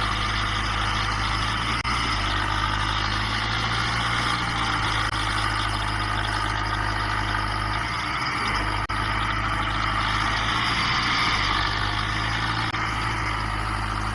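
An engine running steadily at a constant speed, with a low hum.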